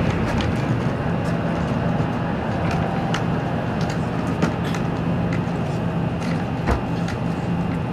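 Running noise heard inside an N700 series Shinkansen motor car at speed: a steady rumble with a constant low hum and scattered faint clicks.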